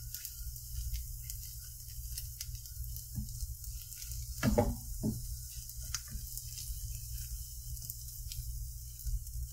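Egg omelet frying in butter in a nonstick skillet: a faint, steady sizzle over a low hum, with scattered small clicks and a couple of brief louder sounds about halfway through.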